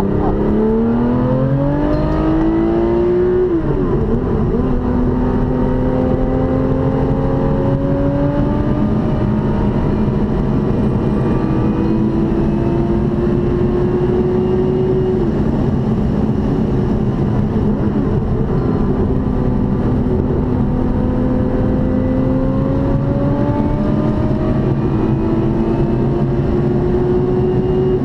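Track car's engine heard from inside the cabin, pulling hard under acceleration. Its pitch climbs in long sweeps and drops sharply at each gear change, a few times over.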